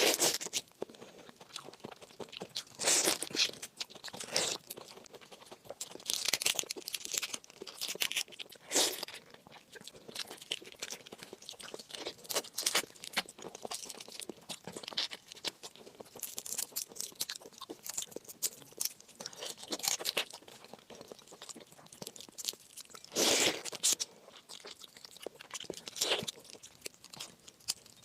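Close-miked chewing of raw shrimp: wet, crunchy bites and mouth clicks coming in irregular bursts, with a few louder crunches spread through.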